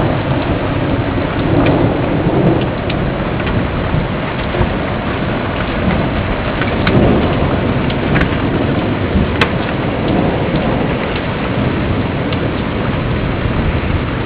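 Heavy rain falling during a thunderstorm, with low thunder rumbling in swells and scattered sharp ticks of drops hitting nearby.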